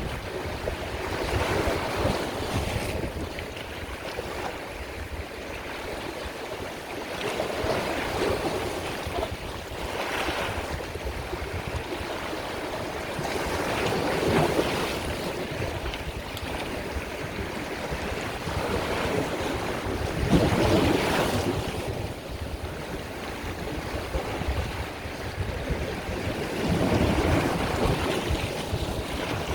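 Sea waves breaking and washing in on a shore, surging louder every few seconds, with low wind rumble on the microphone.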